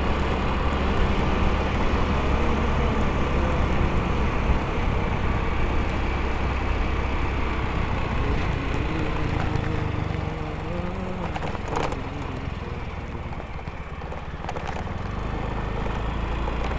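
Motorcycle engine running under way, with steady low road rumble. About ten seconds in the engine note shifts and the sound drops off, then it picks up again near the end.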